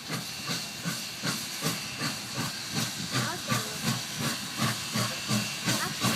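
Passenger train rolling past with a steady rushing hiss and a regular clack about two to three times a second, the wheels passing over rail joints.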